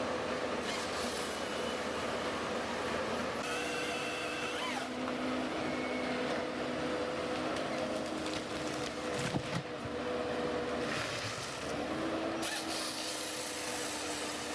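Machinery running: a steady mechanical noise with held humming tones and a few short high whines.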